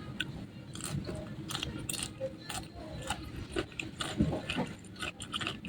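Close-miked chewing of crispy fried chicken: rapid, irregular crackling crunches.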